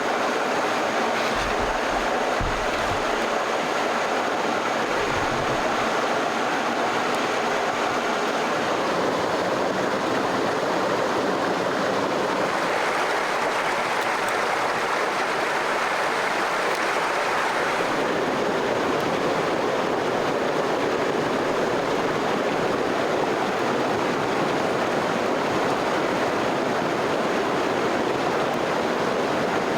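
Steady rushing of a flowing stream, with a few low thuds in the first few seconds.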